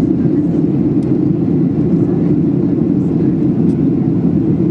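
Steady cabin noise inside a Boeing 737-800 in flight at cruise: an even, low rush of its CFM56 engines and airflow over the fuselage.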